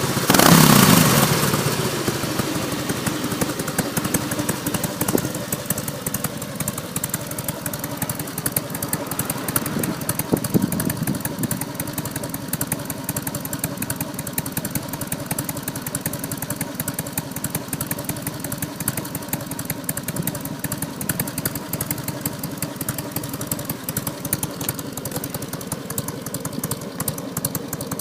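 Harley-style V-twin motorcycle engine with a Mikuni HSR42 carburetor, breathing through a North American-style muffler with a baloney-cut tip and a 20 mm punched-out baffle. A quick throttle blip falls back to idle at the start, a smaller blip comes about ten seconds in, and the rest is a steady idle, subdued but deep in tone.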